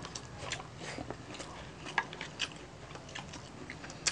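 Close-up mukbang eating: chewing and biting of roast pork belly (lechon belly) and rice eaten by hand, with scattered short crunchy clicks and mouth sounds, a sharper one about two seconds in and another near the end.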